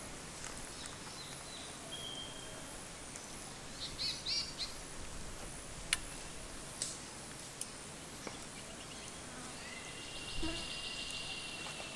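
Birds chirping and calling over a steady outdoor hiss: a short burst of chirps about four seconds in, a few sharp clicks around the middle, and a longer call starting near the end.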